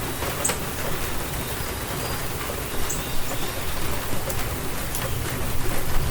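Steady rainstorm: rain falling on surfaces as an even hiss, with individual drops ticking now and then and a low rumble underneath.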